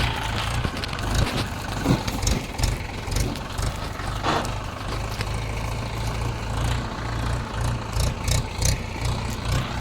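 Tractor diesel engine running steadily with a low throb. A couple of brief clatters come through, about two and about four seconds in.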